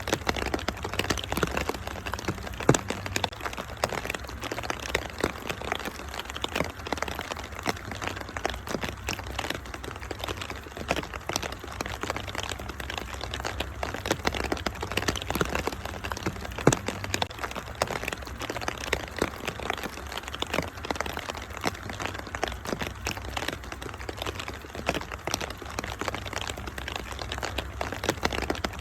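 Wood fire crackling with dense small pops and a couple of louder snaps, about 3 seconds in and again past the middle, over a steady hiss of rain and a low rumble.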